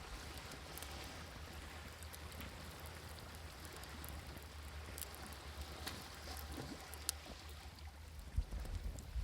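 Wood fire crackling, with scattered sharp pops, over a steady wash of sea waves.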